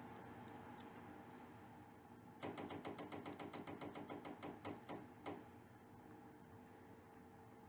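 A fast, even run of light clicks, about nine a second, starting about two and a half seconds in and stopping about three seconds later, over a steady faint hum.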